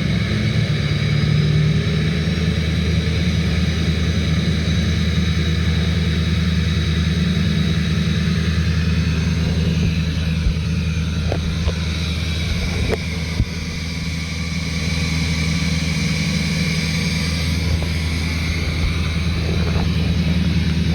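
6.6L LLY Duramax V8 turbodiesel running at cold-start high idle, a steady diesel drone with a turbo whine above it. A brief dip in loudness comes about two-thirds through, with a few light ticks.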